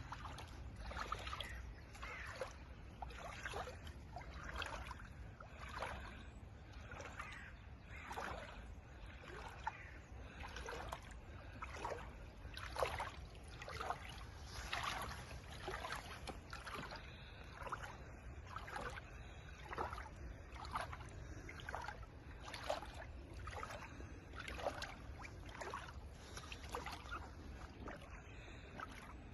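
Water splashing in a steady rhythm, about once a second, over a low rumble.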